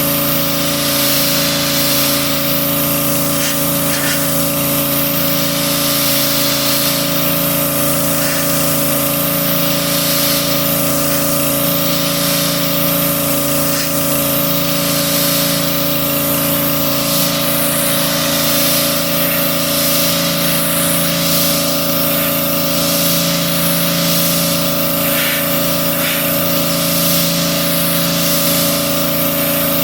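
Gas-engine pressure washer running steadily while spraying, with a loud hiss that swells and fades as the jet sweeps back and forth.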